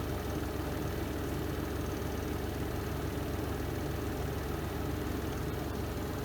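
Renova semi-automatic twin-tub washing machine's spin drum spinning, a steady, even low hum of motor and drum.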